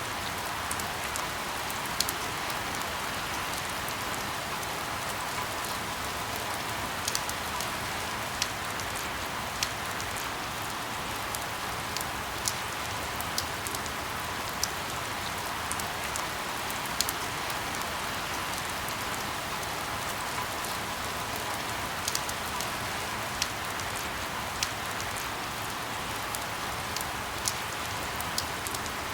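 Steady rain falling, an even hiss with scattered sharper drop taps landing close by, a few each second.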